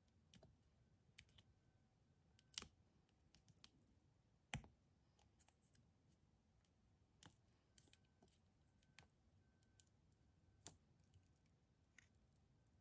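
Near silence broken by scattered light clicks and taps at uneven intervals, a few of them sharper knocks.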